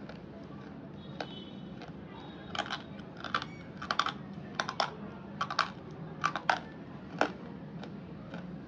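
Crisp, dry crunches of hard, brittle slate-pencil pieces being bitten and broken, a lone tick about a second in, then a quick run of sharp crunches in small clusters that stops about a second before the end.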